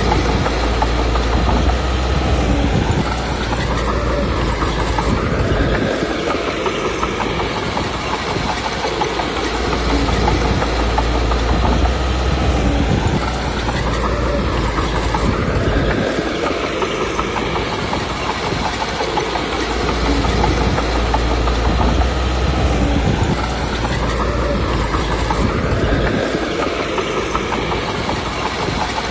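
Komatsu D21P crawler bulldozer working, its diesel engine running with steel tracks clattering. The engine note rises and falls in a cycle that repeats about every ten seconds as the dozer pushes stone.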